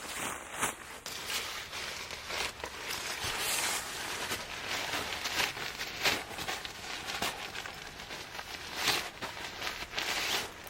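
Irregular rustling with scattered light clicks and knocks.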